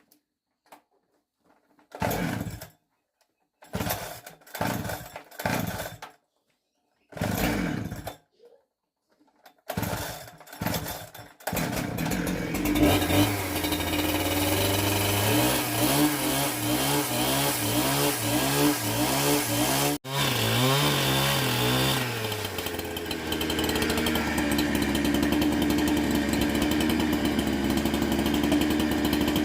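Two-stroke chainsaw being started: several short bursts of noise, then the engine catches about eleven seconds in. For several seconds it runs with a quickly wavering pitch, then it settles into a steady, even run.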